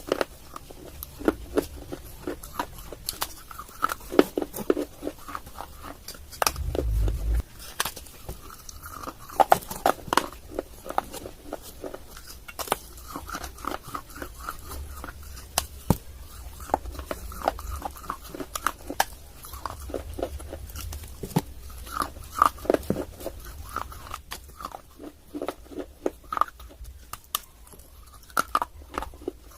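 Close-miked biting and crunching of hard, brittle clay: sharp irregular cracks with chewing in between, and a dull low thump about seven seconds in.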